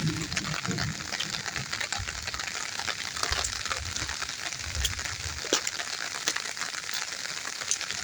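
A steady, fine crackling patter of rainwater dripping and running as the rain tapers off, with low rumbles underneath during the first few seconds.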